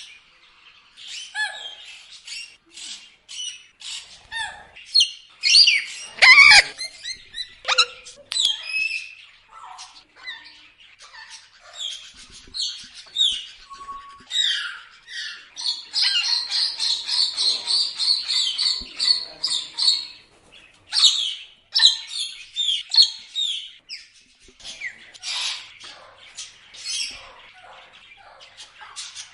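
Parrots calling: a steady stream of short chirps and squawks, with a fast, rapidly repeated chatter for a few seconds past the middle.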